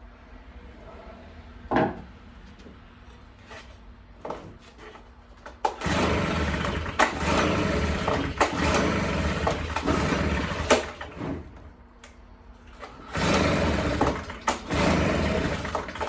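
Stihl BR340 leaf blower's small two-stroke engine firing up and running unevenly for about five seconds, then dying, and catching again a couple of seconds later. It will not keep running, a fault that persists even though it is getting fuel. A knock comes shortly before the engine starts.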